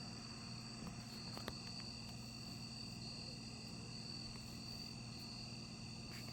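A steady, high-pitched insect chorus with a faint low hum beneath it, and a few light clicks about a second and a half in.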